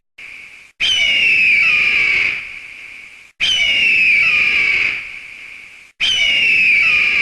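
An eagle's high, hoarse scream, given three times, each call falling in pitch over about two seconds and cutting off suddenly before the next.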